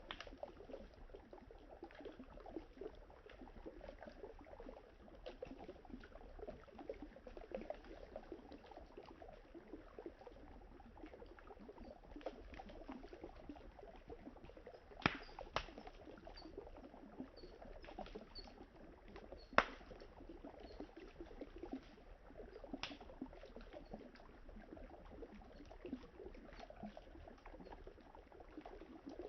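Campfire crackling, with a few sharp pops from the burning wood, the loudest about halfway through, over the steady sound of flowing river water.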